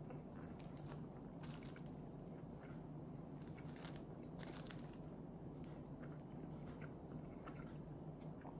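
Close-up chewing of a rice ball: soft crackly clicks in small clusters over a low steady hum.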